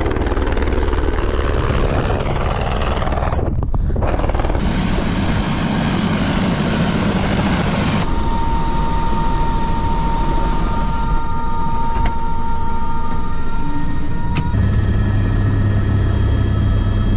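Helicopter running: a loud, steady rotor and engine drone with a strong low rumble and, for several seconds in the middle, a steady whine. The sound changes character abruptly a few times.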